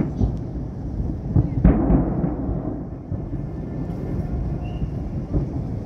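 Distant fireworks salvos: several deep booms, the loudest about a second and a half in, over a continuous low rumble that echoes across the city.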